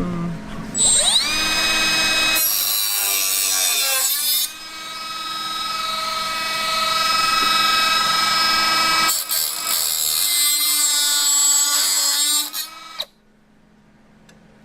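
Milwaukee cordless 3-inch cut-off tool spinning up with a rising whine about a second in and running at speed with a steady high whine. It slows briefly around four seconds in, comes back up to speed, then stops suddenly near the end.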